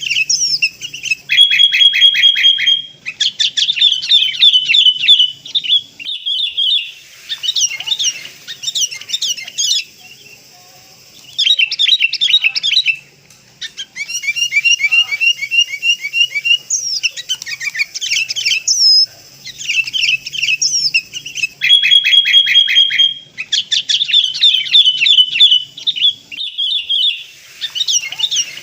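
Recorded sooty-headed bulbul (kutilang) calls played as a bird-trapping lure: fast chirps and trilled phrases in bursts of one to three seconds, broken by short pauses. It is a looped track, with the same phrases coming back about twenty seconds later.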